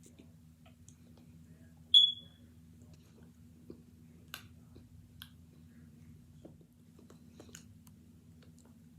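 Faint scattered clicks and small taps from handling and chewing hard cornstarch chunks, over a steady low hum. About two seconds in comes one sharp, short, high-pitched ringing tap.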